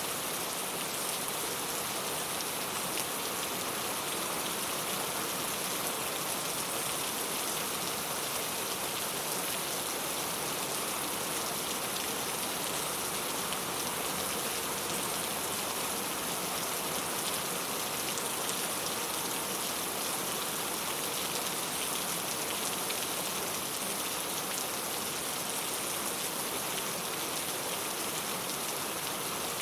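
Steady rain falling on a clay-tile roof: a dense, even patter of many drops.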